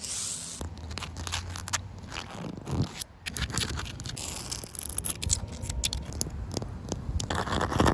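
Fast scratching and scraping on a surface, with many small clicks mixed in.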